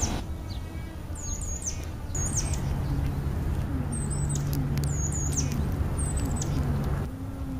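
European starlings giving short, high, falling chirps and whistles, over and over. Under them a steady low rumble sets in about two seconds in and drops away near the end.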